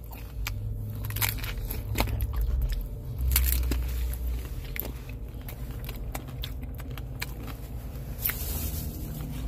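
Close-up crunching and chewing of a crisp fried tostada shell, with irregular short crackles as it is bitten, over a steady low hum.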